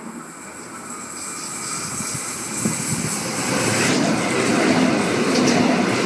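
Sydney Trains M set (Millennium) electric train moving through the station, its running noise growing steadily louder.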